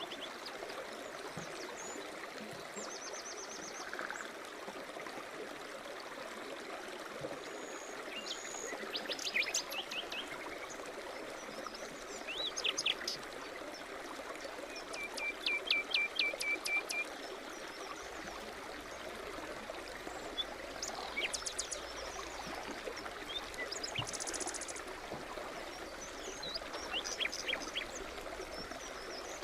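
A stream babbling steadily, with birds singing over it in short trills and quick runs of high notes, scattered through, the loudest runs coming about nine, twelve and fifteen seconds in.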